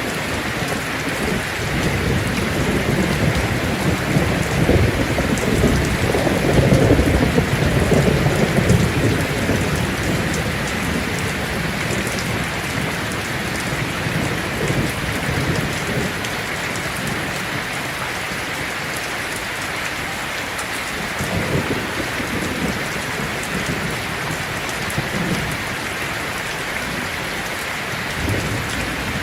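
Heavy rain drumming steadily on a tin roof, with thunder rolling low underneath: a long rumble builds and swells over the first third, and a weaker one comes about two-thirds of the way through.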